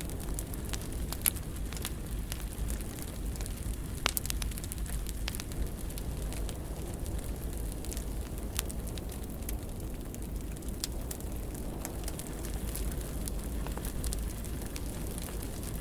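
Fire burning in a fireplace: a steady low rumble with scattered crackles and sharp pops, the loudest about a second in and again about four seconds in.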